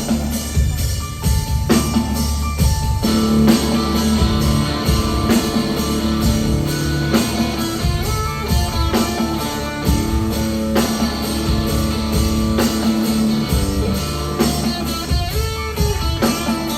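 Rock band playing live: electric guitar over drum kit and bass in an instrumental passage, with regular drum hits throughout.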